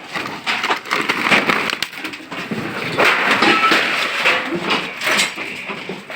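Junk-shop scrap being handled and moved during a truck transfer: a busy, irregular run of clattering knocks and crunching.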